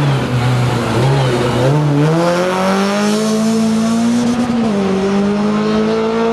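Renault Clio RS rally car engine pulling hard through the gears: revs wavering low at first, then climbing steadily, falling sharply at an upshift about four and a half seconds in, and climbing again.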